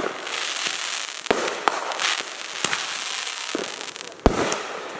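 Consumer fireworks going off: a continuous crackle with scattered sharp bangs, the loudest about four seconds in.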